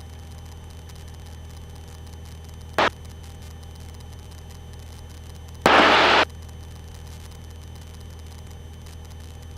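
Steady low drone of the aerobatic aircraft's engine and propeller heard through the cockpit intercom, with a brief click about three seconds in and a loud half-second burst of hiss around six seconds in.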